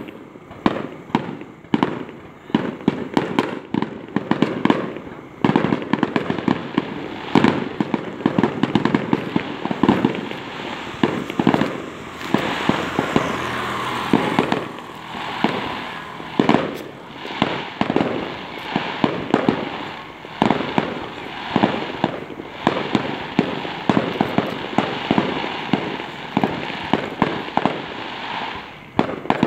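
Fireworks going off in rapid succession: many overlapping bangs and pops, often several a second, over a continuous crackle.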